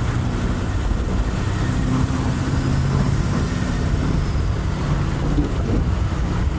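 Turbocharged TVR Chimaera's Rover V8 running on the road, a steady low engine note with road and drivetrain noise, dropping to a lower, rougher note right at the start.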